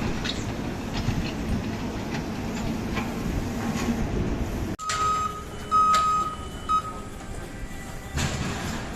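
Steady low engine rumble of road-works vehicles that cuts off about halfway through, then a reversing alarm beeping three times, under a second apart.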